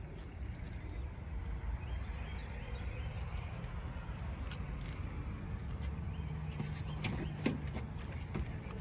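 Humvee diesel engine running with a steady low rumble, with scattered light clicks over it.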